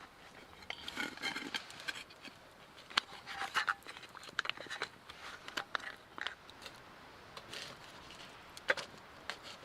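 Scattered light clicks and knocks of things being handled, with a brief clinking about a second in and a sharper knock near the end.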